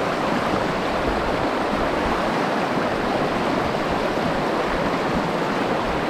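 Steady rush of a fast-flowing mountain stream, with uneven wind rumble on the microphone.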